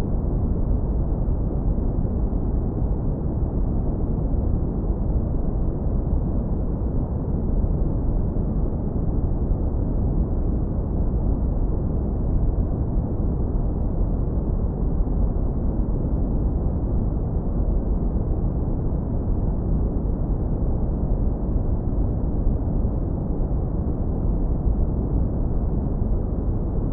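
Synthetic brown noise, low-pass filtered so only a deep, warm rumble remains, steady and unchanging with nothing above it.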